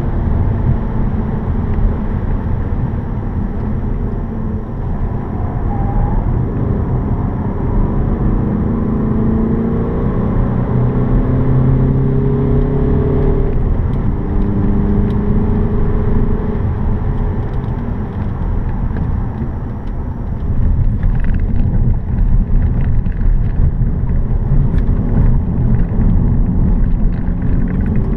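Seat Leon FR 5F's 1.8-litre turbocharged four-cylinder petrol engine heard from inside the cabin at speed on track, its note rising under acceleration and dropping at each gear change or lift, over constant tyre and road noise.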